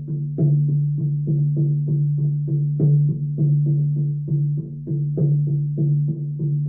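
Shaman's frame drum beaten in a steady rhythm, about three strokes a second. Its deep tone rings on between the strokes, and a heavier stroke comes every two to three seconds.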